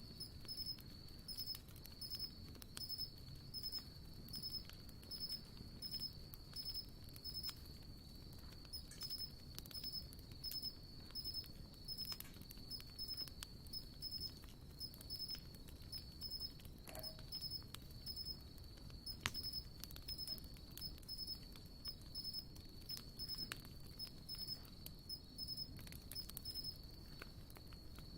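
Wood campfire crackling softly with scattered small pops and one louder pop about two-thirds of the way through. Behind it runs a steady high chirping that repeats roughly every two-thirds of a second.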